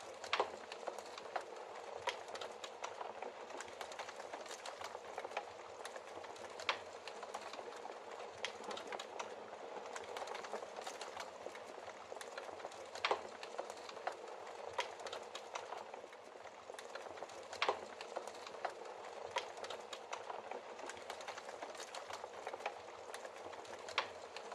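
Wood fire burning in a fireplace: a steady hiss of flames with irregular crackles and sharp pops from the burning logs, a handful of louder pops standing out.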